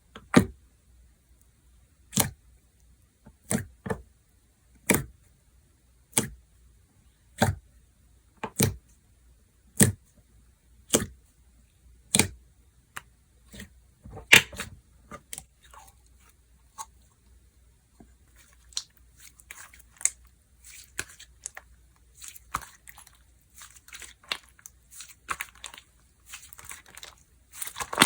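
Slime being pressed and played with by hand: a run of sharp pops, about one every second, for the first half, then softer, denser crackling and squishing that builds toward the end.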